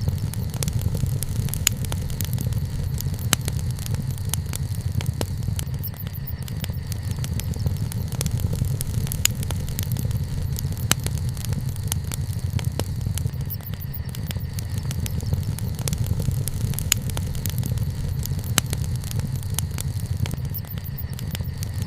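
Wood campfire burning, with sharp crackles and pops at irregular intervals over a steady low rumble.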